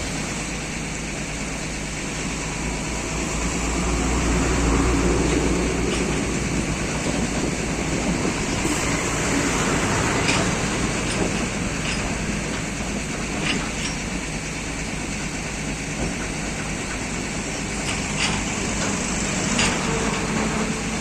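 Diesel engine of an XCMG 210C hydraulic excavator running steadily, swelling louder a few seconds in as it takes load, with a few short sharp knocks later on.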